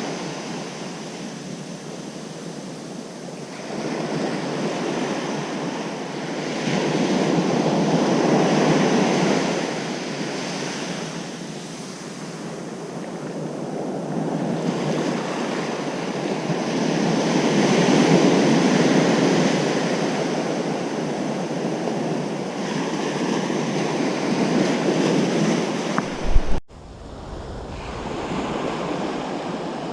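Ocean surf: waves breaking and washing up the beach, the rush swelling and ebbing about every five seconds. Near the end comes a sudden low thump, then the sound cuts out for an instant.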